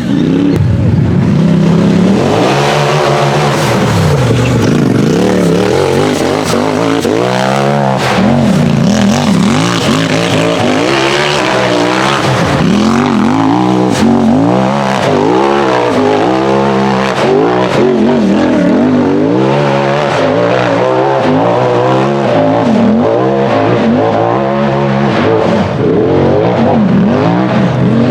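Turbocharged UTV hill-climb buggy engine under hard throttle, revving up and dropping back over and over, its pitch rising and falling about every second or two as the driver works the throttle over rough ground.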